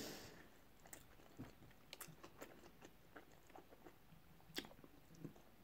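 Faint chewing of sushi: soft, scattered mouth clicks and smacks, with one sharper click about four and a half seconds in.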